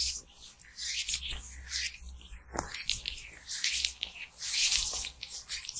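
Rubber gloves rubbing close to the microphone: repeated hissy swishing rubs with a few short clicks between them.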